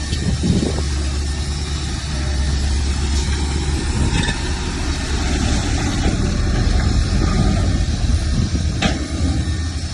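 Heavy earthmoving machine's diesel engine running with a steady low rumble, working harder for a few seconds past the middle. A single sharp click near the end.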